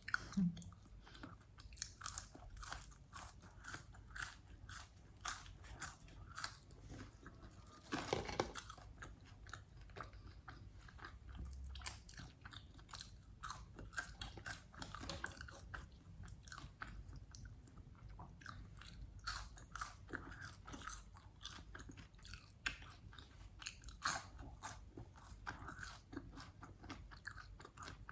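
Close-miked crunching and chewing as crispy fried chicken wings are bitten and eaten: irregular crisp crackles of the breading, with a louder burst of crunching about eight seconds in.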